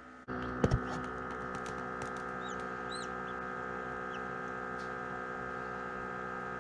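Newly hatched chicks peeping a few times, short high chirps that rise and fall around the middle. Under them runs the steady hum of the egg incubator.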